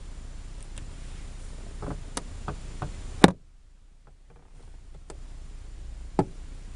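Light clicks and knocks of a car's interior fittings being handled, with a sharp loud knock about three seconds in and another a little before the end.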